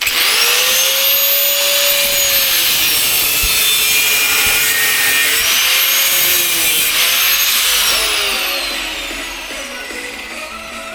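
A handheld power tool cutting through a rubber exhaust hanger that has a metal strap inside it. The motor whine rises as the tool starts, runs loud and steady with a harsh grinding hiss, and falls away as the tool winds down in the last few seconds.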